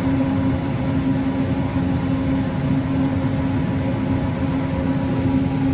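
Disneyland Monorail running, heard from on board: a steady rumble of the moving train with a constant electric motor hum.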